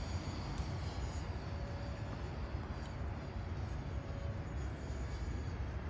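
Faint, steady high whine of an RC foam Boeing 737 model's electric ducted fans in flight, under a heavy rumble of wind on the microphone.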